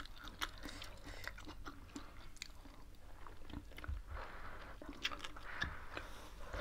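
Close-up eating sounds of a meal of rice, pork and fresh greens: chewing and crunching with many small scattered clicks of the mouth, and soup sipped from a spoon in the last couple of seconds.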